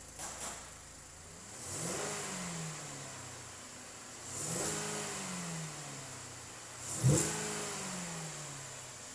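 2014 Chevrolet Impala LT engine idling and revved in short blips: a small double blip at the start, then three revs that each rise quickly and fall back to idle, the last one sharpest and loudest.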